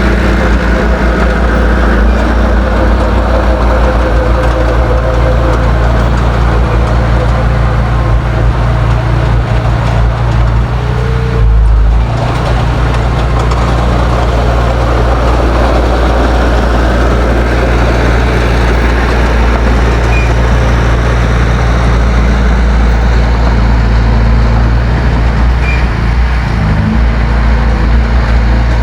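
Heavy diesel earthmoving machinery engine running steadily and loud, with a brief deeper surge about halfway through.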